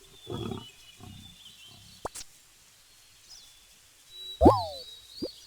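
A lion's last short grunt at the start, with faint bird chirps behind it. Near the end comes the loudest sound: a short tone that glides up and then falls.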